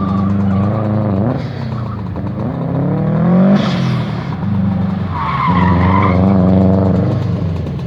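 A car's engine revving up and falling back through the gears as it is driven hard around an autocross course. Its tires squeal briefly about five seconds in.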